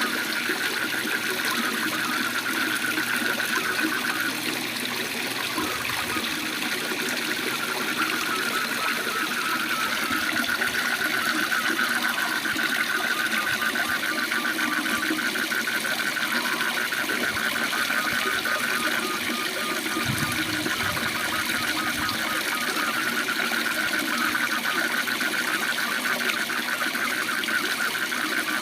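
Waterfall rushing steadily, with frogs calling over it in a continuous fast-pulsing trill.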